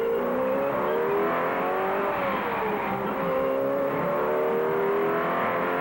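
Ford 427 V8 racing engine running hard on a dynamometer through a simulated Le Mans lap. Its pitch climbs in steps as it revs through the gears, falls away about two seconds in, then climbs again.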